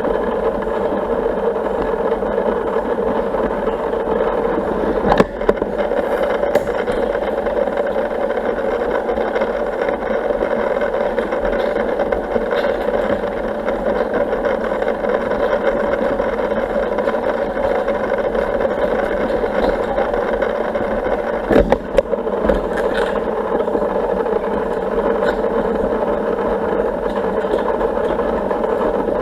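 Steady motor hum of an Intex pool vacuum setup's pump running as it cleans the pool bottom, with a brief knock about five seconds in and another around two-thirds of the way through.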